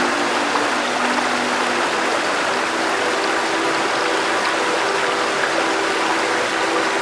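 River water flowing steadily, an even rushing sound, with soft background music holding low, sustained notes underneath.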